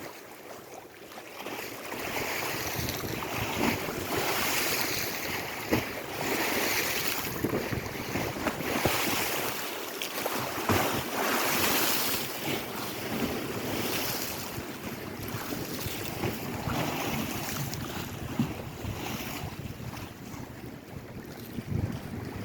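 Lake Erie waves washing against the shore in repeated surges, with wind buffeting the microphone.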